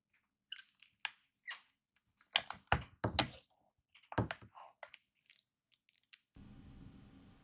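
Irregular series of short knocks, clicks and brief scrapes of hard objects being handled, stopping about six seconds in, after which only a steady faint hiss remains.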